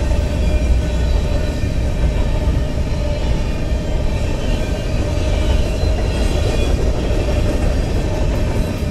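BNSF freight train of covered hopper cars rolling past: a steady, loud rumble of steel wheels on the rails.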